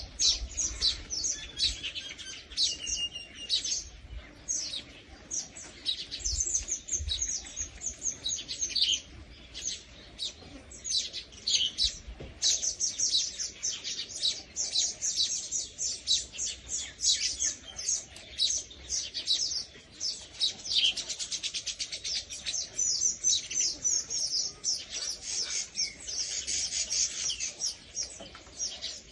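Small birds chirping rapidly and continuously: many short high-pitched notes, densely packed and overlapping.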